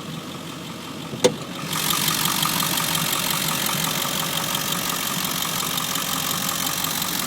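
Ford 7.3 L Powerstroke turbo-diesel V8 idling steadily. There is a single sharp click about a second in, and shortly after that the engine sound grows louder and brighter and holds steady.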